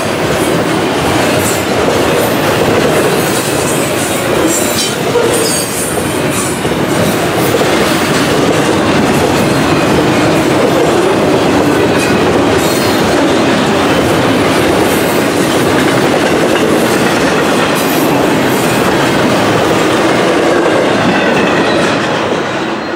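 Double-stack intermodal well cars rolling past at speed: a steady loud rumble and clatter of steel wheels on the rails, with some high-pitched wheel squeal in the first few seconds. The sound starts to fade near the end as the last car goes by.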